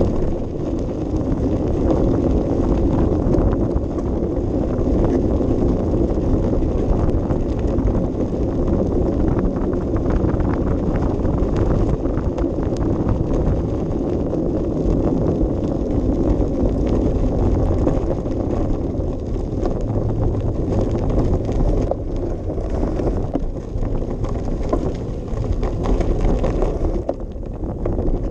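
Bicycle ride picked up by a GoPro: steady wind buffeting the microphone over the rumble and constant small rattles of the bike rolling over an uneven path.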